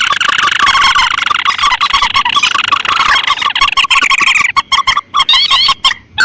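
Bird-lure playback of paddy-field rail and crake calls (mandar and tikusan) overlaid: a loud, dense chatter of fast repeated notes, broken by brief gaps near the end.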